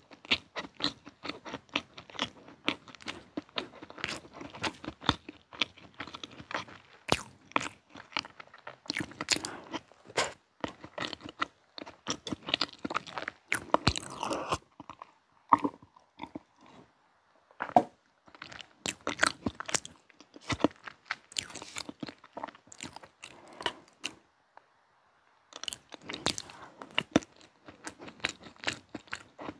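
Close-miked chewing of soft chocolate pound cake, a run of many sharp wet mouth clicks and smacks. About halfway through, a few swallowed gulps of a drink break the chewing.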